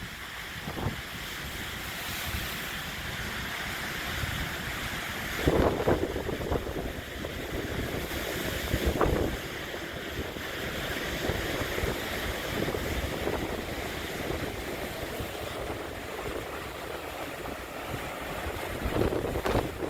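Sea waves breaking and washing on the shore in a strong, near-gale wind, with the wind buffeting the microphone. The buffeting comes in louder gusts about five and a half seconds in, around nine seconds, and near the end.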